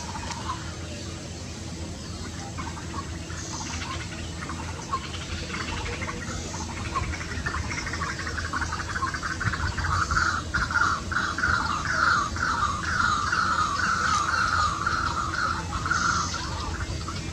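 White-breasted waterhen (dahuk) calling: a long rhythmic series of repeated notes that grows louder from about halfway and stops shortly before the end. Fainter high chirps sit over a steady low hum.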